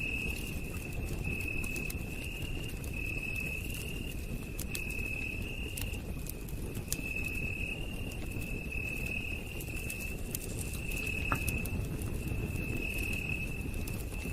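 Campfire crackling, with scattered sharp pops over a low steady rush. Over it a night insect calls one high, steady pitch in repeated phrases, roughly one a second.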